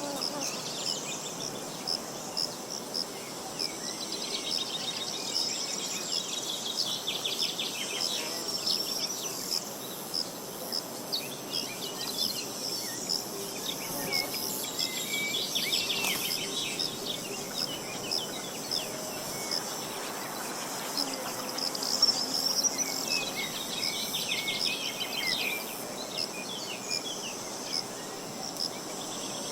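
Wild birds singing in repeated fast, trilled phrases over a steady high-pitched insect buzz.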